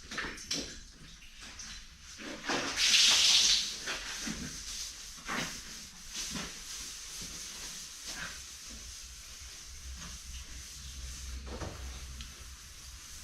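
Water running and spraying while a milk bulk tank and wash tanks are scrubbed, with scattered knocks and scrapes. A loud hiss of spraying water comes about three seconds in.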